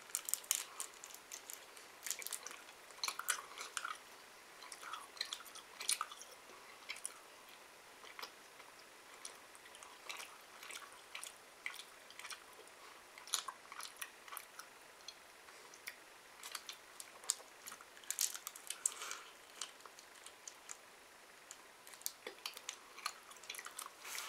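Someone chewing a sticky, chewy sweet with the mouth close to the microphone, a steady run of small wet clicks and smacks.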